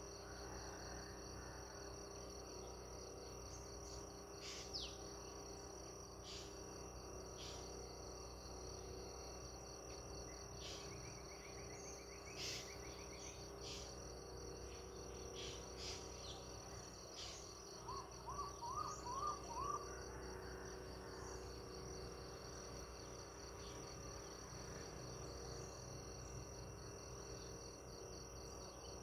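Crickets trilling steadily, with scattered short high bird chirps. About 18 seconds in, a bird gives a quick run of about five short rising notes.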